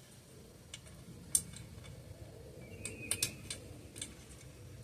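Light metallic clicks and clinks of small hardware, washers and bolts, being handled: a few scattered taps, with a cluster and a brief ringing chink about three seconds in.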